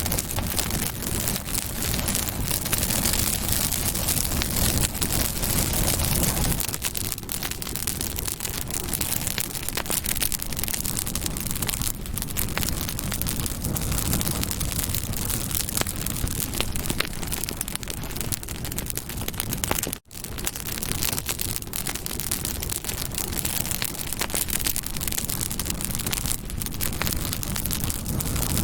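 Campfire burning, with dense crackling and popping of the wood over a steady rush of flame. The sound drops out for an instant about twenty seconds in.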